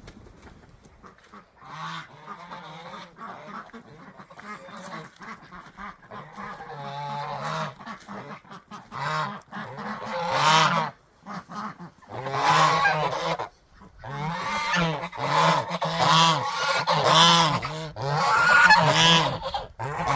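Geese honking over and over, softer at first and much louder and more frequent from about halfway through.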